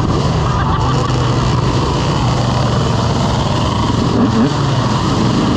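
Motorcycle engine running at a steady pace, with no clear revving or gear changes.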